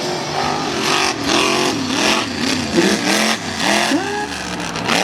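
Mega truck engine revving up and down, its pitch rising and falling several times in quick succession.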